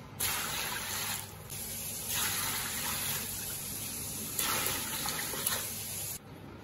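Water poured from a large metal scoop into a wide wok of raw donkey rib pieces, splashing over the meat as the wok fills. It comes in several pours with short breaks between them.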